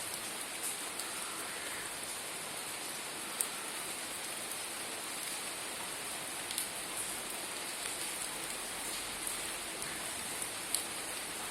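Steady hiss of falling water, with a few sharp ticks now and then.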